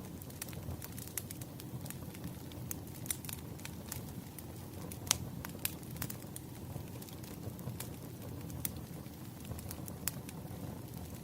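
Wood fire crackling: scattered sharp pops and snaps over a steady low rumble, with the loudest pop about five seconds in.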